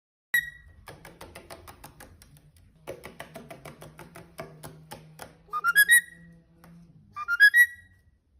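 A quick rising run of four clean whistled notes, heard twice and after a stretch of rapid clicking over a low hum.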